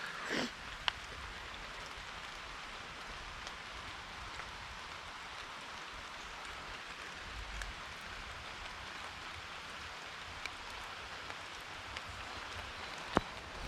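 Steady rain falling, an even hiss of drops, with a few sharp clicks about a second in and near the end.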